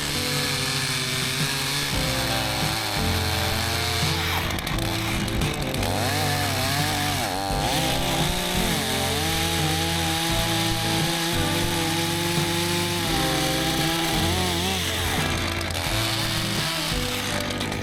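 Chainsaw running and revving up and down as it cuts, over background music with a held, stepping bass line.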